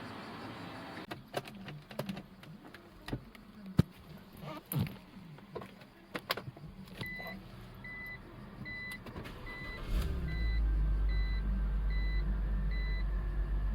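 A few scattered clicks and knocks, then a car's warning chime beeping evenly, somewhat under twice a second. About ten seconds in, a BMW engine starts and settles into a steady low running.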